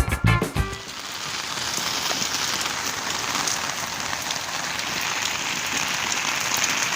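A short burst of intro music stops under a second in, and steady rain takes over, falling as an even hiss.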